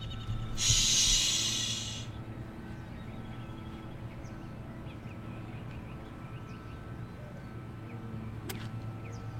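A loud rush of hiss lasting about a second and a half early on, then a low steady hum under faint chirps, and near the end a single sharp crack of a golf club striking the ball on a swing.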